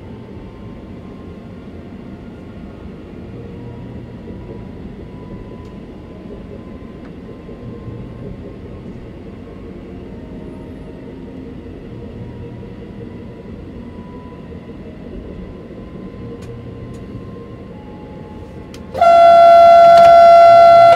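Cab noise of a Sapsan (Siemens Velaro RUS) high-speed electric train running, a steady rumble with a faint wavering whine. About nineteen seconds in, a train horn sounds one loud blast of about two seconds.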